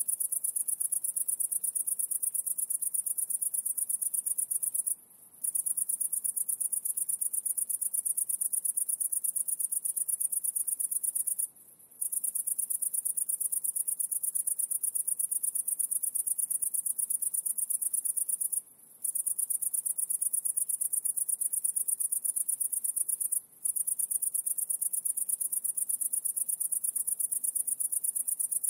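High-pitched insect trill: a fast, even pulsing that stops briefly four times.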